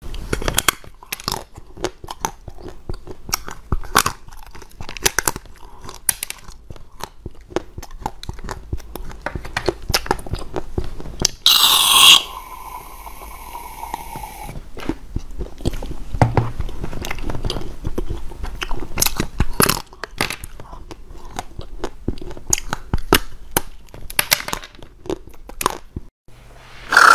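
Close-up eating sounds: crisp bites, crunching and chewing of a bitter-melon-shaped chocolate, with many sharp snaps. About halfway through, a short loud hiss and then a softer spray lasting a couple of seconds, as aerosol whipped cream is sprayed into the mouth.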